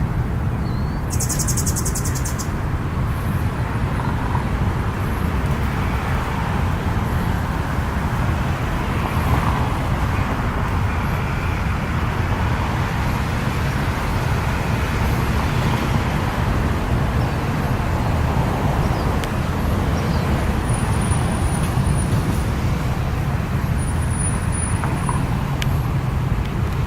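Steady outdoor rumble and hiss with no break, heaviest in the low end.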